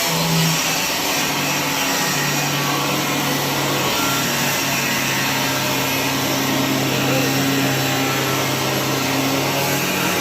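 A machine running steadily: a loud, even hiss over a low, steady hum.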